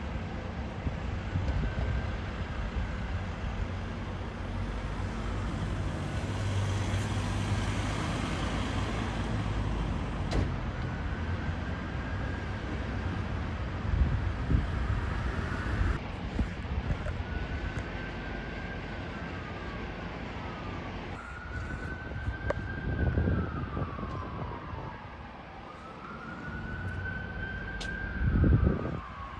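Emergency vehicle siren wailing, its pitch rising and falling in repeated sweeps that start about a third of the way in and grow stronger toward the end, over a steady low rumble of engines and traffic.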